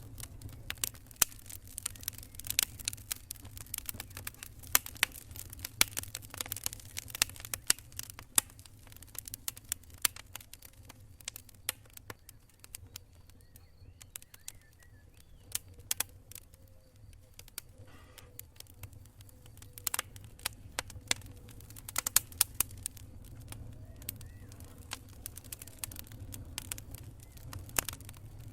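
Wood campfire crackling, with many irregular sharp pops and snaps over a low steady rumble. The pops thin out for a while around the middle and grow dense again near the end.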